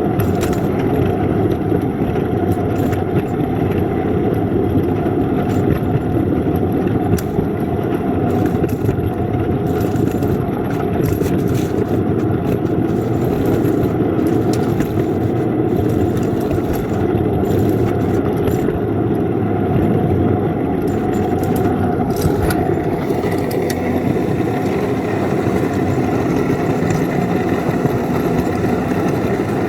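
Engine running steadily as a plow-equipped rail vehicle makes a pass along the track, pushing snow with its wings out.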